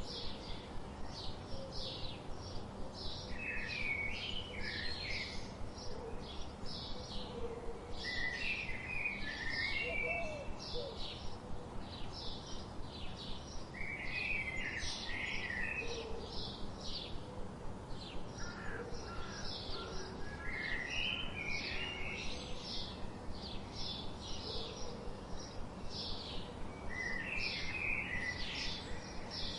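Birds chirping: a steady run of short high chirps, about two a second, broken every few seconds by a brief twittering phrase.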